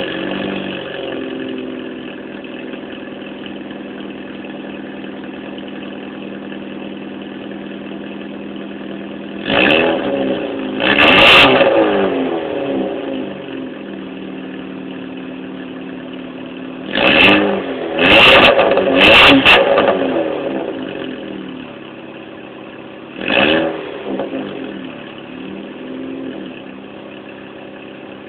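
Cavalier's engine idling through an aftermarket GReddy muffler and blipped several times: a rev about ten seconds in and a longer one just after, three quick revs close together about seventeen to twenty seconds in, and one more about twenty-three seconds in, each rising and falling back to idle. The idle runs a little higher just after start-up, then settles.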